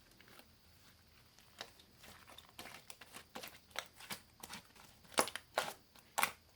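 Clay-topped clear slime being squeezed and pulled by hand, making irregular sticky crackles and pops. It starts almost silent, and the crackling picks up after about a second and a half, with the loudest pops near the end.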